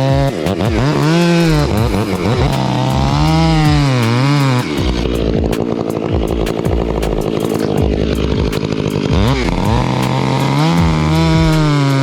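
Gas chainsaw revving, its pitch swinging up and down, then dropping to a lower, steadier note for about four seconds in the middle as it bites into the wood, and revving high again near the end.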